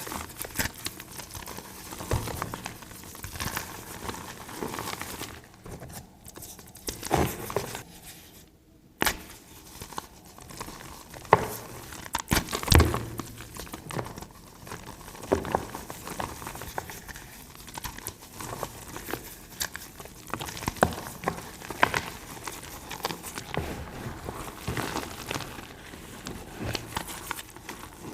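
Dusty blocks of reformed gym chalk being crushed, a run of dry, crumbly crunches at irregular intervals with a brief pause about a third of the way in.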